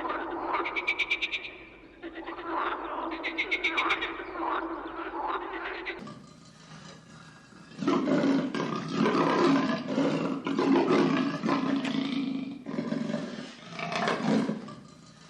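Animal calls: first a rapid pulsing croak-like call, then, after an abrupt change about six seconds in, a louder series of deep rough roar-like calls.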